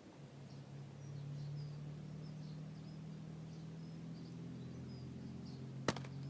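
Small electric motor of a Tickle Me Big Bird toy running with a steady low hum as the toy moves, with faint bird chirps in the background and a sharp click near the end.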